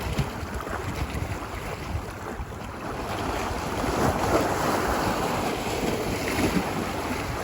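Ocean waves washing onto a beach, a steady rushing surf that swells a little louder about halfway through, with wind on the microphone.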